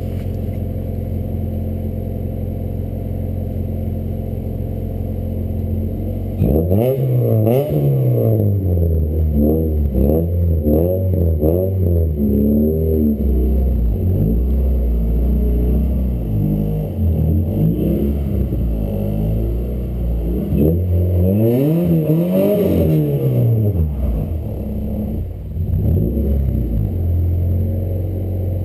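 Car engine idling steadily, then revved over and over in quick rises and falls of pitch for about eighteen seconds, before dropping back to a steady idle near the end.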